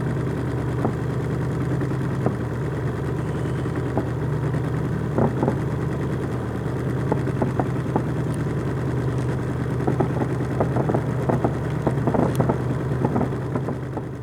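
Boat's outboard motor running at a steady pitch, with scattered light knocks over the hum.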